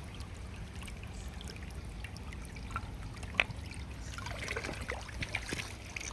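Shallow stream water trickling and splashing as it is disturbed, with a single sharp click just past halfway and more splashing near the end.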